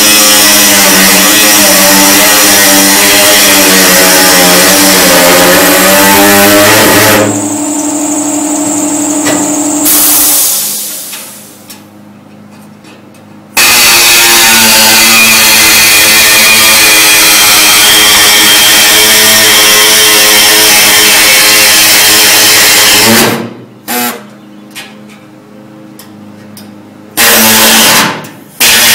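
Power cutting tool cutting the sheet metal of a car body panel, running loud under load with its pitch wavering. It stops about seven seconds in and winds down, starts again midway, and near the end runs in a few short bursts.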